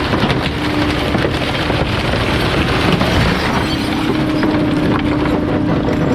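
Bulky-waste garbage truck's compactor crushing a load, with continual cracking and splintering over the truck's steady hum.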